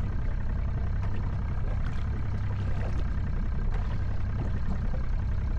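Boat motor running steadily at low speed, a low even drone.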